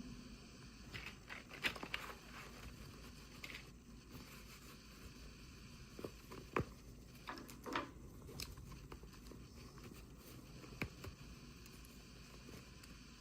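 Faint, scattered crinkling and small clicks of toy packaging being handled and opened by hand, with the loudest snaps about a second and a half in and again around six to eight seconds in.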